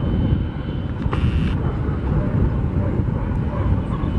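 Airbus A330-200 jet engines rumbling steadily as the airliner rolls out along the runway, with a faint high engine whine and wind buffeting the microphone. A brief hiss about a second in.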